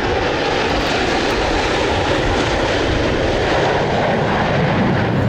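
Airplane engine noise from an aircraft in flight: a loud, steady rush of sound with no clear pitch.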